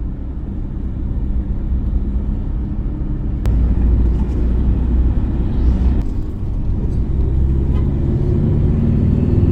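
Engine and road noise of a moving vehicle, heard from aboard: a steady low rumble that grows louder about three and a half seconds in, with a sharp click there. The engine note rises near the end.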